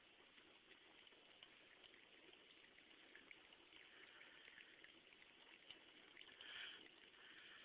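Faint, thin stream of water running from a sink faucet, with a cat lapping at it: small wet ticks over a steady trickle, louder for a moment about six and a half seconds in.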